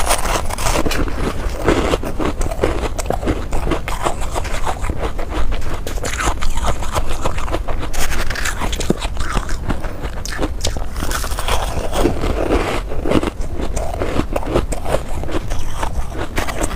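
Crunchy bites of ice being bitten and chewed close to the microphone: a steady run of sharp cracks and crunches, with grinding chews between them.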